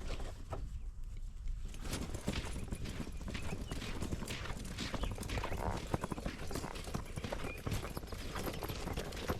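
A dense, irregular run of short taps and clicks over a low rumble, starting about two seconds in.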